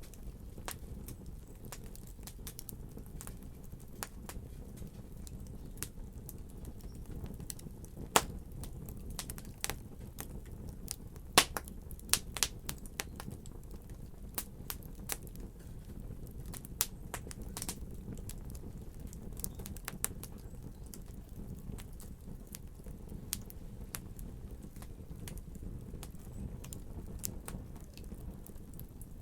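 Wood fire crackling and popping in a fireplace over a steady low rumble, with irregular sharp pops, the loudest a little after 8 seconds and around 11 to 12 seconds in.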